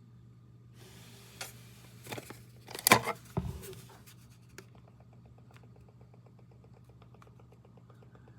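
Rustling and clattering handling noise with a sharp clack about three seconds in, then a fast, even ticking, about ten ticks a second, over a steady low hum.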